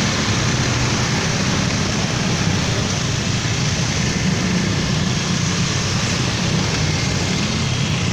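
Train passing through a station: steady, unbroken noise with a low hum underneath.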